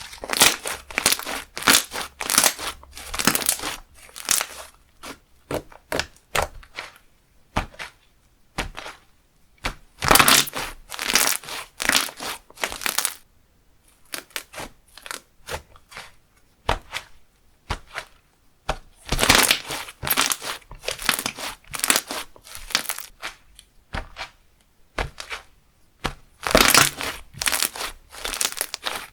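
Thick creamy slime being squeezed and stretched by hand, giving dense crackling and popping of trapped air. It comes in four runs of a few seconds each, with scattered quieter clicks between.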